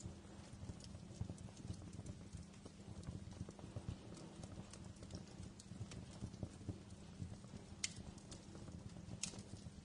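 Wood fire crackling in a fireplace: a low steady rumble of flames with irregular sharp pops and snaps. Two louder pops come near the end.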